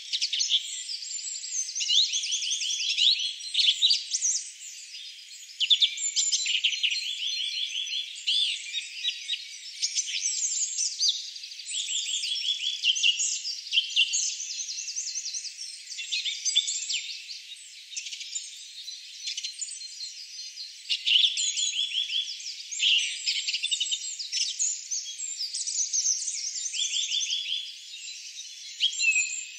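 A dense chorus of small songbirds: many overlapping rapid chirps and trills, with no low sounds such as footsteps or wind beneath them.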